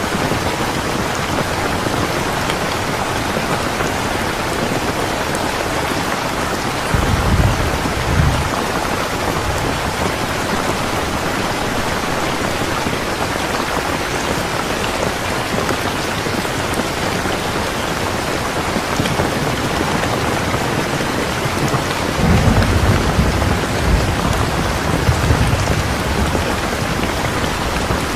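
Steady heavy rain falling, with two low rolls of thunder, a short one about a quarter of the way in and a longer one later.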